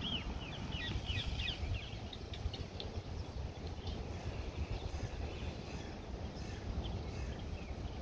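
Birds chirping in short, quick notes, crowded together in the first two seconds and scattered after, over a steady low background rumble.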